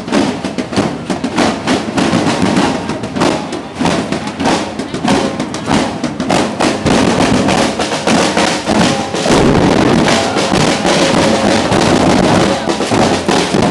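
Drums played by a band marching in a street procession, a dense run of loud beats, with crowd voices mixed in.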